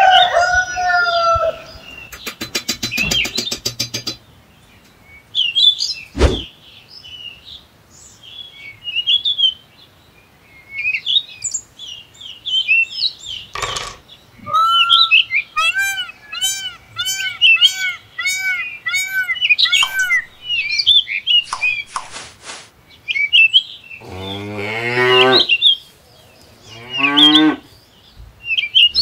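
Farmyard animal sounds: birds chirping, one repeating an arching chirp about twice a second for several seconds, then a cow mooing twice near the end. Two sharp knocks stand out earlier.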